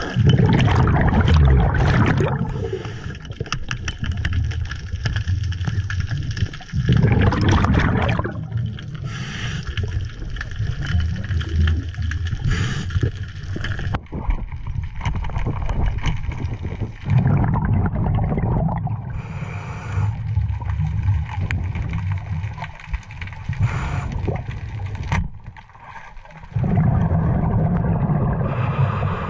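Scuba diver's regulator breathing, recorded underwater: a short hiss on each breath in and a loud rumble of exhaled bubbles on each breath out, every several seconds.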